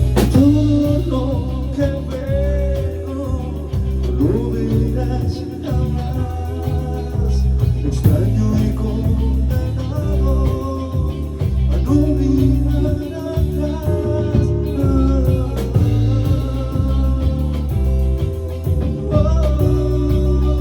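A band rehearsing a rock song: drum kit, bass and guitar playing together, with a melody line that bends in pitch.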